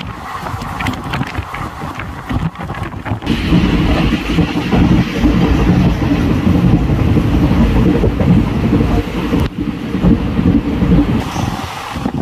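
Express train running at speed, heard from on board with wind buffeting the microphone. A louder, heavier rumble sets in about three seconds in and eases off near the end.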